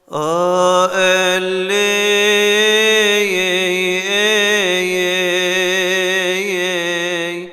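Solo male voice chanting a Coptic Orthodox hymn unaccompanied: one long melismatic phrase sustained on a steady pitch with small wavering ornaments, ending just before a breath.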